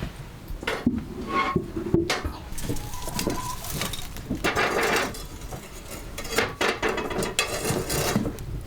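Kitchen utensils and pots being handled: irregular knocks, clinks and scrapes.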